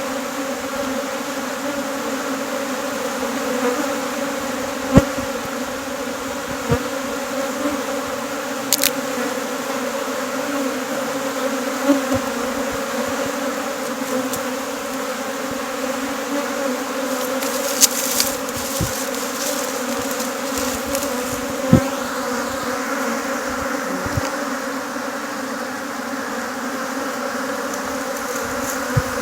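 A mass of honeybees buzzing, a steady loud hum from many bees at once, as from a swarm that has left its hive. A few short sharp knocks or clicks sound over the hum.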